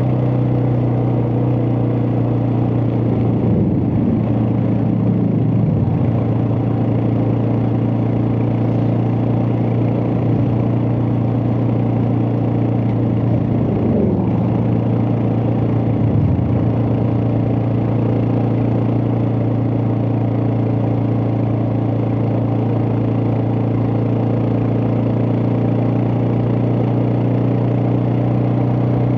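Suzuki DR650's single-cylinder four-stroke engine running at a steady pace under way, a constant hum over wind and road noise. Twice, about three and fourteen seconds in, a tone sweeps down in pitch over a couple of seconds.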